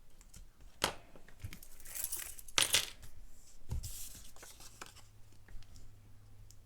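Handling of cardstock and small craft tools on a desk: a sharp click about a second in, papery scraping and tearing sounds, a loud knock near three seconds and a softer one shortly after.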